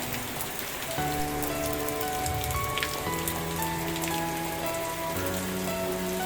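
Steady rain falling, an even hiss scattered with sharp drop ticks, over soft sustained music chords that change every couple of seconds.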